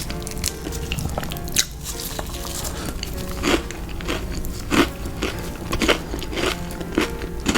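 Close-miked chewing of crunchy fried food: a crisp crunch about one and a half seconds in, then a run of crunches about every half second from about three seconds in, over soft background music.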